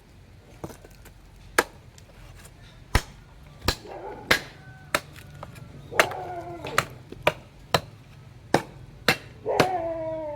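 Repeated sharp chopping blows of a hand tool, about a dozen at uneven intervals. Three brief pitched calls, each falling slightly, come in between, the last and loudest near the end.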